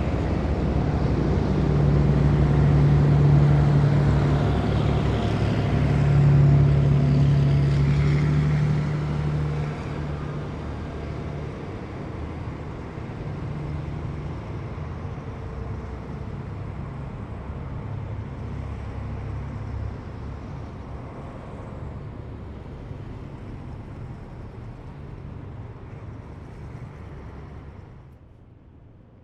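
Heavy military vehicles driving past, their engines making a deep hum. It is loudest in the first ten seconds, then fades as they move away, and drops off sharply near the end.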